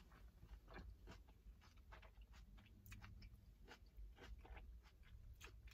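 Faint chewing of a bite of steak fajita in a pan-crisped flour tortilla, with soft, irregular crunches and mouth clicks.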